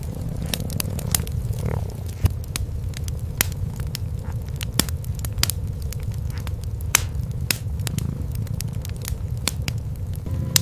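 Wood fire crackling in a fireplace, with irregular sharp pops, a few louder than the rest, over the steady low purring of cats.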